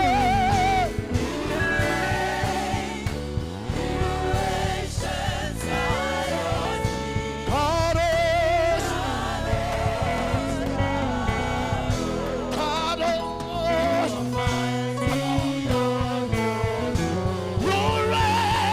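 Gospel worship music: a singer holds long, wavering notes over steady instrumental backing.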